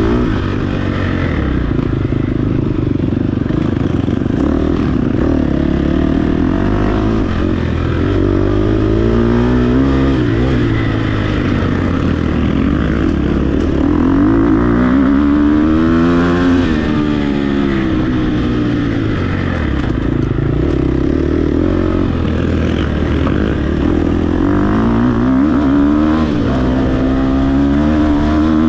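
Dirt bike engine running hard under load, its pitch rising and falling over and over as the throttle is opened and shut.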